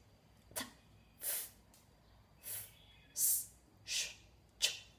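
A woman saying voiceless consonant sounds on their own as examples: six short unvoiced puffs and hisses, about one every second, with no voice behind them.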